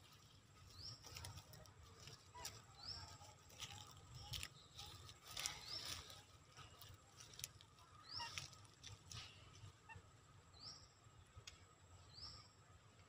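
Quiet outdoor ambience: a bird repeating a short, faint rising chirp every second or two, with scattered soft clicks.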